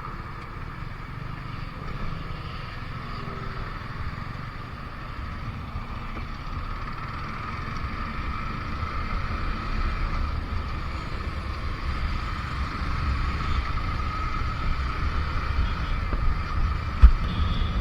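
Motorcycle running along the road with wind buffeting the microphone. The low rumble grows louder toward the end, and a single sharp thump comes near the end.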